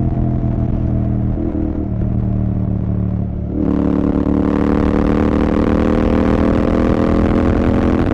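Royal Enfield Continental GT 650's 648 cc parallel-twin engine, through an aftermarket Red Rooster exhaust, running on a ride. It is lighter and quieter for the first three and a half seconds as the throttle is eased. Then the throttle opens again, and the note turns loud and full and climbs slowly in pitch as the bike accelerates.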